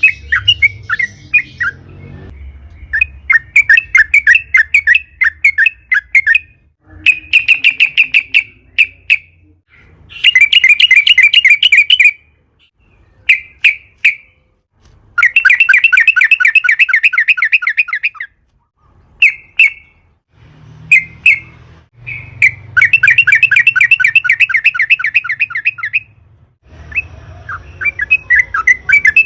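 Yellow-vented bulbul singing: repeated bursts of rapid, bubbling chattering notes, each phrase lasting one to three seconds with short pauses between.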